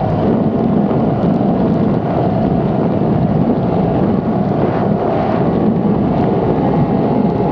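Performance outboard boat running at speed: a steady engine drone mixed with wind buffeting the microphone and the rush of water.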